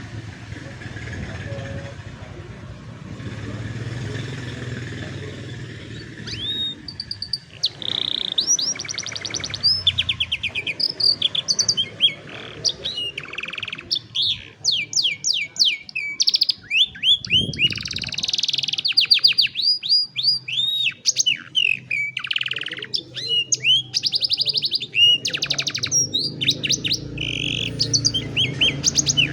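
Domestic canary singing a long song of fast trills and rolling runs of rapidly repeated notes, starting about six seconds in after a low background rumble.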